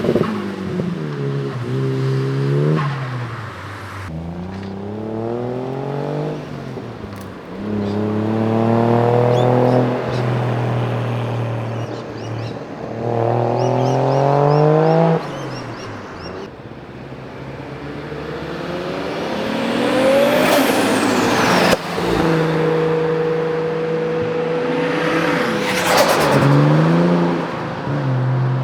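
Modified Japanese performance cars accelerating hard away one after another, engines revving up through the gears with the pitch climbing and dropping at each shift. About twenty seconds in, a high whine sweeps up and back down as a car passes.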